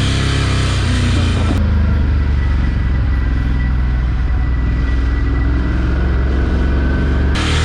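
Ducati Scrambler 1100's L-twin engine running steadily, with the strange mechanical noise that the owner takes for piston slap. The sound goes duller from about a second and a half in until near the end.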